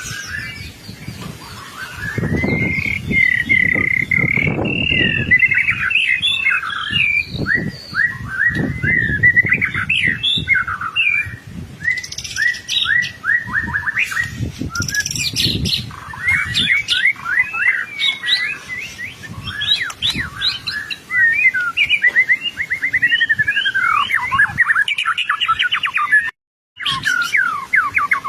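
White-rumped shama singing continuously in full voice, a fast-changing song of clear whistles, sweeping notes and rapid trills with hardly a pause. Dull low thumps sound underneath in the first half, and the sound cuts out for a moment near the end.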